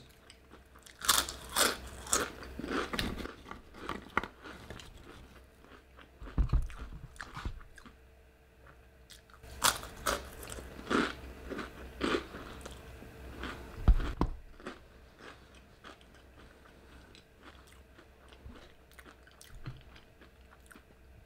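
A person biting and chewing crunchy fried food close to the microphone. Irregular loud crunches come in clusters, softer chewing fills the gaps, and there are a couple of dull knocks, the loudest about two-thirds of the way through.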